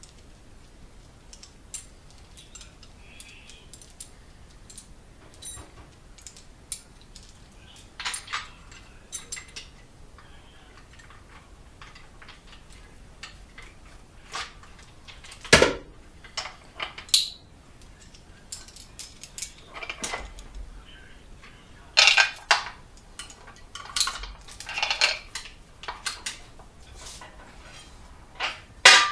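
Scattered metallic clinks and clanks of hand tools and bolts being handled, with a louder knock about halfway through and a run of clatter near the end.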